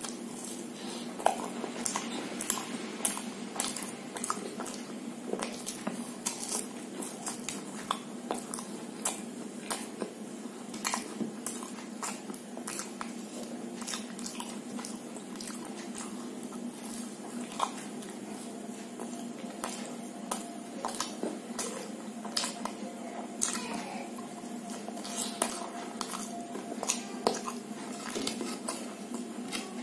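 Close-up mouth sounds of a person biting and chewing samosa and jalebi: many short clicks and smacks throughout, over a steady low hum.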